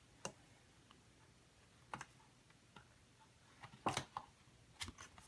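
A few faint, scattered clicks and taps from handling a picture book between pages, with a slightly louder cluster about four seconds in.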